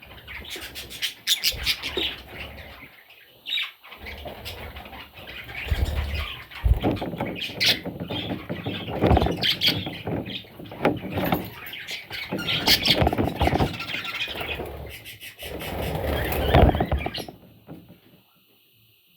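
Baby budgerigars (budgie chicks) squealing and chirping in irregular raspy bursts, breaking off about seventeen seconds in.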